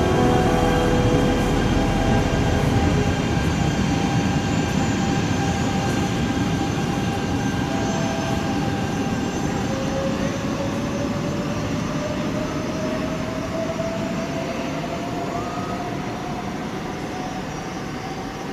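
E2 series Shinkansen pulling out of a station platform, its running noise slowly fading as it moves away. From about halfway its traction motors give a whine that rises steadily in pitch as the train accelerates.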